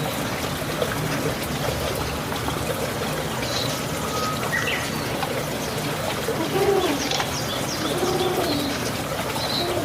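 Domestic pigeons cooing, with a few low rolling coos past the middle, and short high chirps over a steady rushing background noise.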